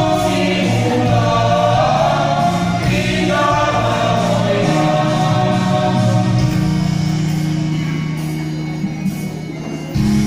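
Mixed choir of teachers singing over steady low held notes; the singing thins and softens toward the end. Just before the end a steady low hum cuts in abruptly.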